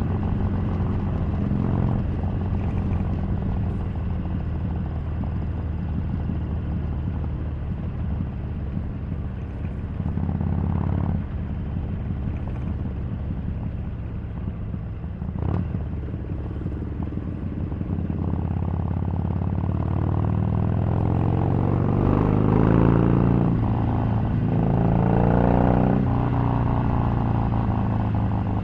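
Harley-Davidson 883's air-cooled V-twin running under way. In the second half the engine pitch rises twice as it accelerates through the revs, and a single sharp click comes about halfway through.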